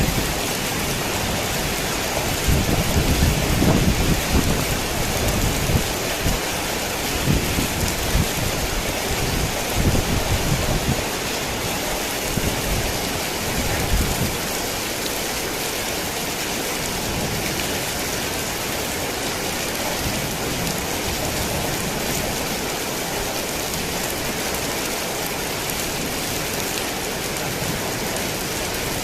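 Heavy rain falling in a steady, even hiss. Low rumbles come and go during roughly the first half, then the rain carries on smoothly.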